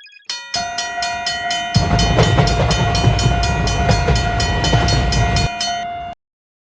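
A train passing: a steady horn tone over a rapid, even clacking beat of about four a second, with a heavy rumble through the middle. It cuts off suddenly near the end.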